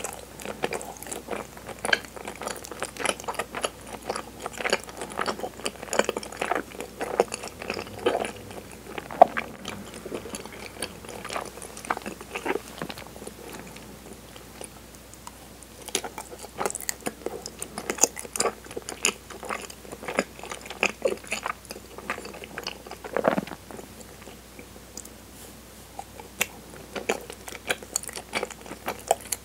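Close-miked chewing of soft, sticky chigiri mochi: a dense run of wet mouth clicks and smacks. It breaks off briefly near the middle, then resumes.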